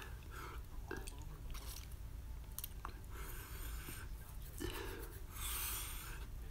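A person chewing a mouthful of spicy ramen noodles, with small wet mouth clicks, and a breathy hiss a little after five seconds in.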